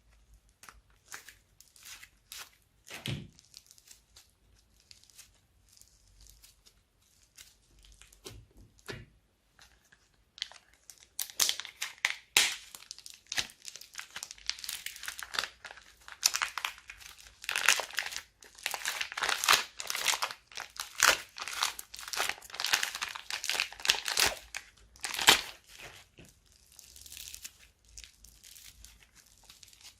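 Slime being worked by hand, with sticky crackling and popping. There are scattered soft clicks at first, then dense, louder crackling from about eleven seconds in until near the end.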